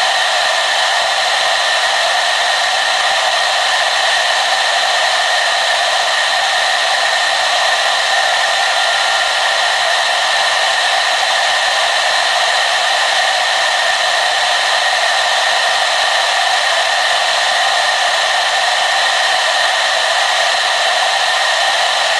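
Hair dryer running steadily, a constant loud rush of blowing air with a steady whine from its motor and fan.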